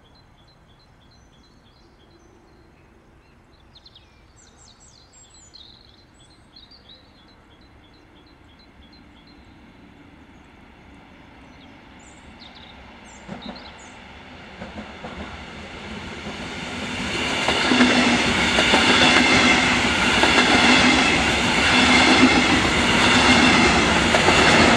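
Double-deck regional push-pull train approaching and then passing close by, with an electric locomotive pushing at the rear. The noise of wheels on rails swells from faint to loud over the second half, with a steady hum and higher steady tones during the pass.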